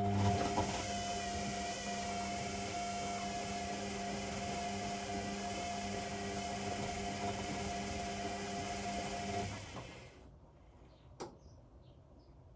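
Washing machine motor turning the drum during the wash cycle: a steady whine and hum for about ten seconds, then the motor stops and the sound dies away. A single sharp click comes about a second later.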